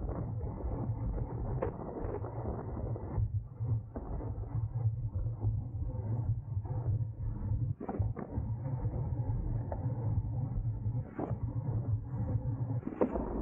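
Riding noise from a racing bicycle: a steady low wind rumble on the microphone over road and tyre noise, with scattered short knocks and clicks from the bike.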